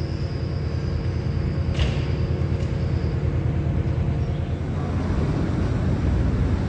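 Passenger trains at a station: a steady low rumble with an engine hum that grows louder towards the end, a thin high whine over the first three seconds, and a brief clack about two seconds in.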